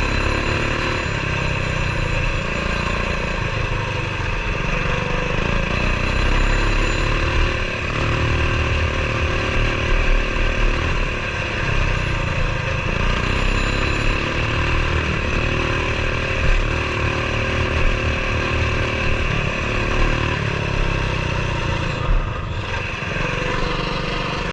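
Coleman BT200X mini bike's single-cylinder four-stroke engine running under throttle on a trail ride, its pitch rising and falling repeatedly as the rider speeds up and eases off.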